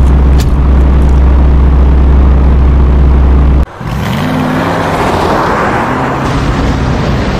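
Car engine running with a steady low hum. About three and a half seconds in it cuts off abruptly and gives way to a rushing engine sound whose pitch rises and falls.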